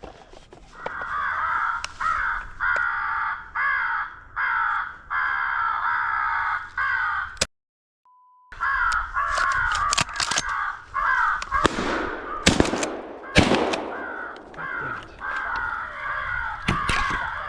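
Crows cawing over and over, harsh repeated calls that break off for about a second near the middle. A little past the middle come two loud shotgun shots about a second apart, and the cawing carries on after them.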